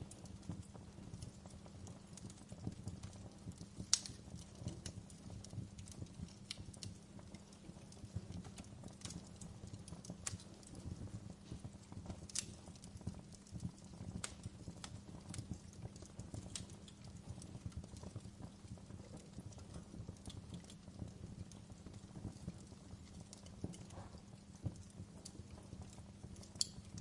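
Wood fire in a fireplace crackling: irregular sharp pops and snaps over a low steady rumble, with a louder pop about four seconds in and another near the end.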